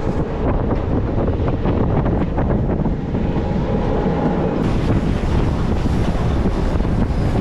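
Wind rushing in through an open window of a moving passenger train and buffeting the microphone, over the steady running noise of the train with small rattles and clicks.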